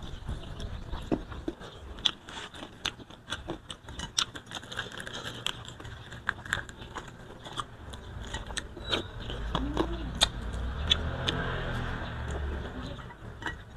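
Close-up eating sounds: chewing, lip smacks and sharp mouth clicks as grilled carp and rice are eaten by hand. From about eight seconds in a low rumble rises and holds for some four seconds, then fades.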